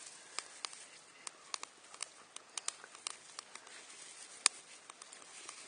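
Small fire of damp kindling and tinder crackling: scattered sharp pops at irregular intervals, with one louder snap about four and a half seconds in.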